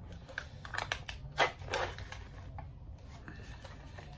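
Snack packaging crinkling as it is handled: a run of small crackles and clicks, with the loudest rustle about a second and a half in, over a faint low room hum.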